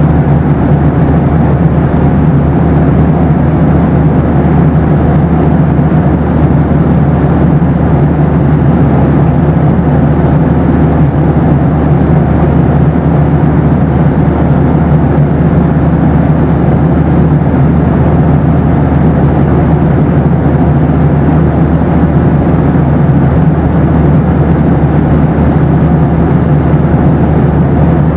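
Boeing 737 passenger cabin noise: a steady, even low rumble of the engines and airflow, with a constant low hum and no changes.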